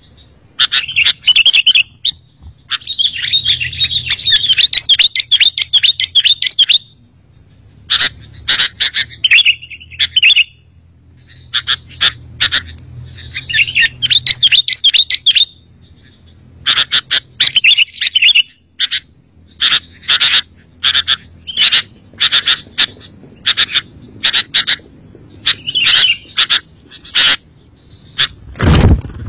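Sooty-headed bulbul calling in bursts of sharp chirps and quick chattering runs, separated by short pauses. A loud low thump near the end.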